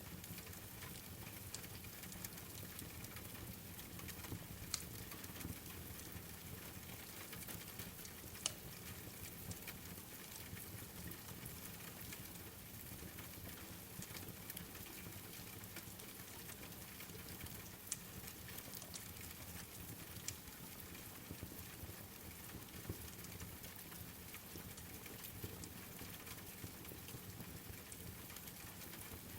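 Steady rain falling, with occasional sharp pops from a wood fire every few seconds.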